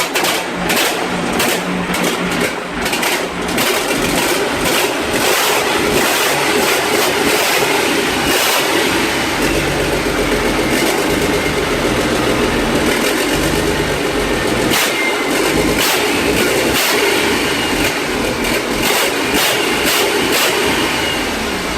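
Large diesel engine running loudly and steadily just after start-up, a dense mechanical din.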